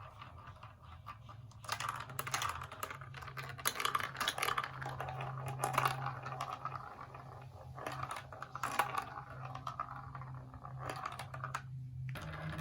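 Plastic marble-run building pieces clicking and clattering, many small irregular clicks in quick succession over a steady low hum.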